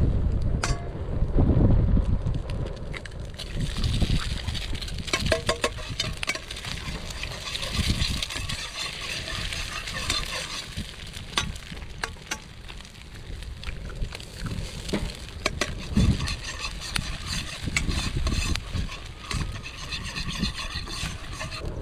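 Food sizzling in an iron wok over a campfire while being stirred, with scattered clicks of a utensil against the pan. Gusts of wind rumble on the microphone now and then.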